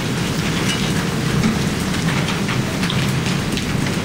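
Hailstones and heavy rain pelting down steadily: a dense, continuous patter of many small hard impacts.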